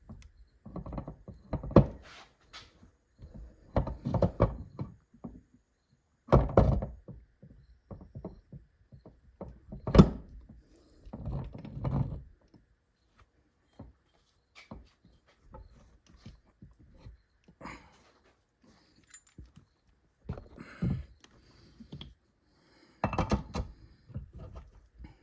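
Metal transmission parts knocking and clunking as gear shafts are handled and fitted into the case. The sound comes as a string of separate thunks with quiet gaps between them, the sharpest about ten seconds in.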